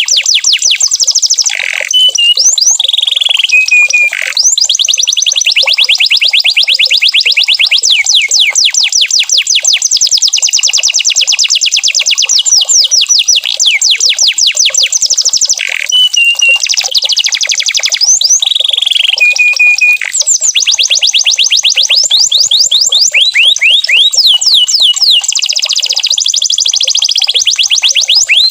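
Domestic canary singing continuously in long rapid trills of fast repeated high notes, broken now and then by short held whistles. The same run of phrases comes round again about 14 seconds later.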